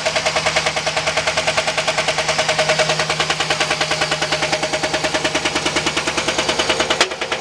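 2011 Chevrolet Silverado engine running with a loud, rapid, regular knock, about ten a second. It is bad enough that the engine has to be shut off straight away.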